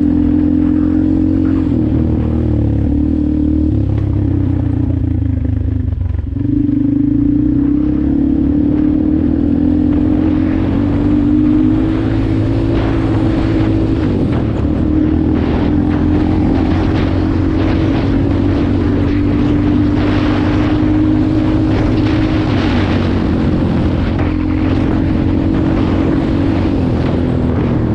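Dirt bike engine running under way at a fairly steady speed, easing off briefly about six seconds in and then pulling again.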